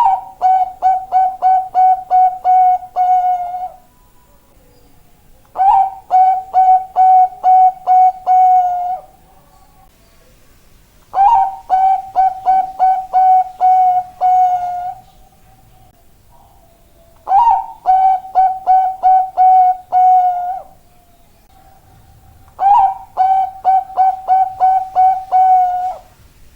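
Zebra dove (Bangkok-type perkutut) singing. It gives five song phrases, one every five to six seconds, each a short rising opening note followed by a quick run of about eight cooing notes.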